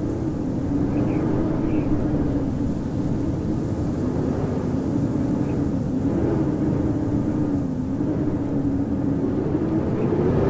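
Blizzard wind howling: a steady rush with a low whistling tone that wavers slowly up and down, and a few faint short high chirps now and then.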